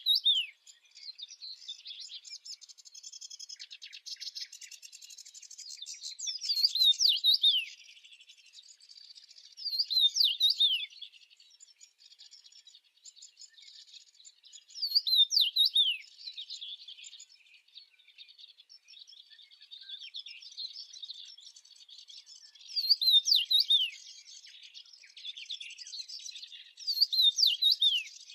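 Small songbirds chirping: a steady soft twittering, broken every few seconds by a louder phrase of quick, falling whistled notes, six such phrases in all.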